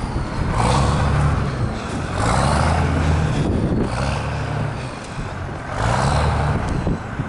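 A truck engine running, revving up briefly three times and dropping back in between.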